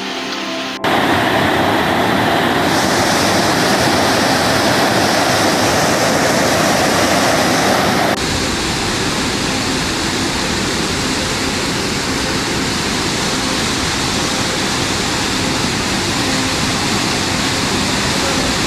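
Loud, steady rush of fast-flowing floodwater. It starts abruptly about a second in and shifts in tone around eight seconds, as one stretch of water gives way to another.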